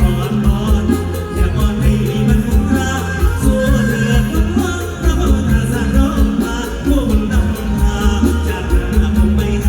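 Live mor lam band music with a steady beat and a bass line, and a voice singing over it.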